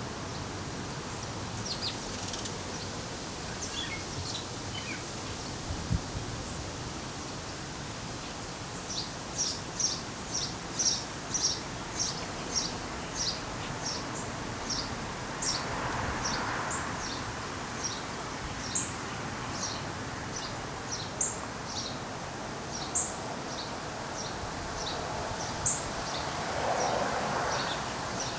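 Small birds chirping: short, high chirps, a few early on and then about one or two a second from about a third of the way in, over a steady outdoor hiss. There are two soft rushing swells midway and near the end.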